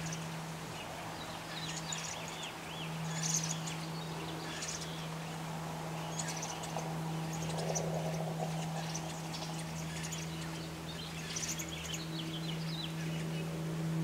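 Birds chirping and twittering in short high bursts, several times, over a constant low hum.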